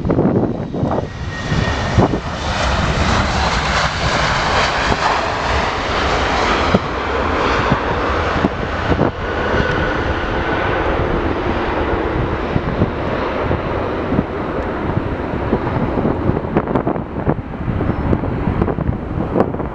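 Jet airliner's engines passing close by, loudest for several seconds after about two seconds in, then slowly easing off. Wind buffets the microphone.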